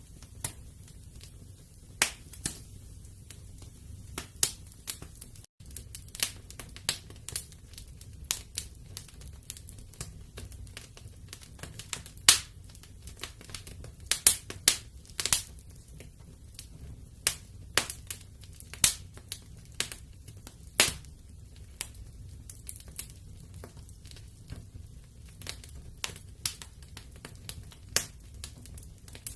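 Wood fire in a fireplace crackling, with frequent sharp, irregular pops over a low, steady rumble of burning.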